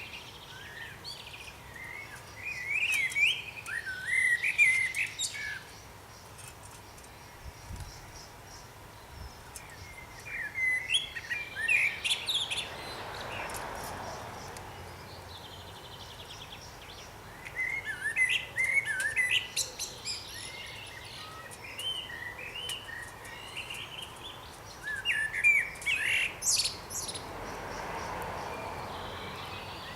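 Small songbirds chirping and twittering in several bursts of quick, up-and-down notes, with short gaps between bursts. A soft rushing hiss swells and fades twice.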